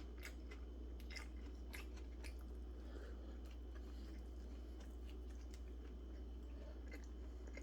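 A person chewing a mouthful of chicken sandwich, with faint wet clicks of the mouth that come most thickly in the first few seconds, over a steady low hum.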